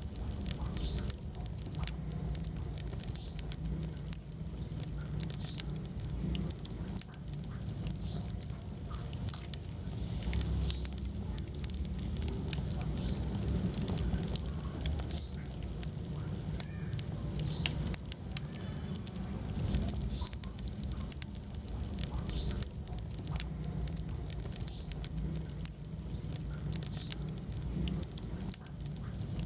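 Wood fire burning in a fireplace, crackling with frequent small irregular pops over a steady low rumble of the flames.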